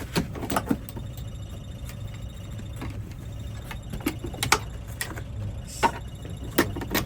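Irregular clicks and knocks of equipment being handled and moved about while a key programming machine is fetched, over a steady low hum.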